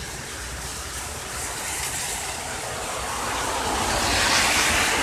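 Heavy rain falling steadily as a broad hiss. About three seconds in, a louder hiss swells up, peaks near the end, then fades.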